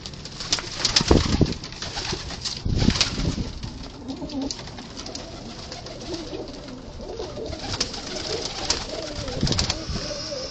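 Domestic pigeons cooing together in a small enclosed coop, broken by a few sharp noises, the loudest about a second in.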